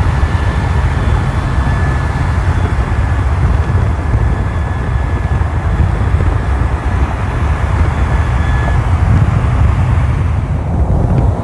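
A car engine running loudly close by, with a thin steady high tone held over it until a couple of seconds before the end.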